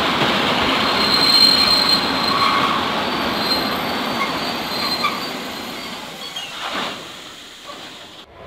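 Train passing close by: loud rolling wheel-on-rail noise with thin high wheel squeal about a second in, dying away over the last few seconds before breaking off suddenly near the end.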